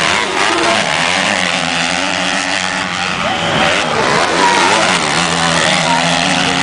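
Several motocross bikes' engines revving and changing gear during a race, their pitches rising and falling over one another.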